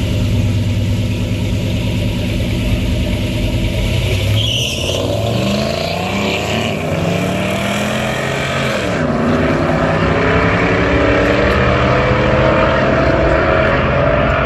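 A truck engine accelerating hard: its pitch climbs, drops sharply at a gear change about halfway through, then climbs again.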